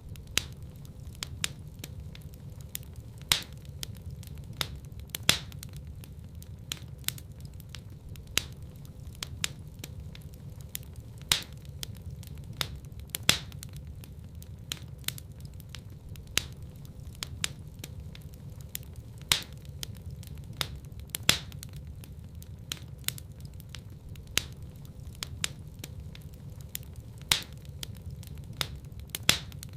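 Wood fire burning in a fireplace: a steady low rumble of flames under irregular crackles and sharp pops of burning logs, a few of them much louder than the rest.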